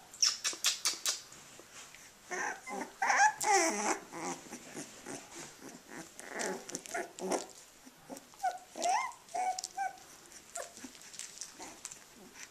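A litter of 18-day-old puppies whimpering and giving small yips, in short scattered calls that rise and fall in pitch.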